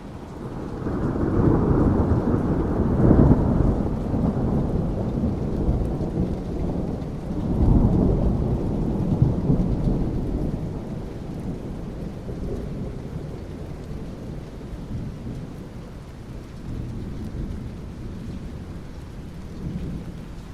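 Thunder rolling over steady rain: a deep rumble swells twice, about three seconds in and again near eight seconds, then slowly dies away into the patter of rain.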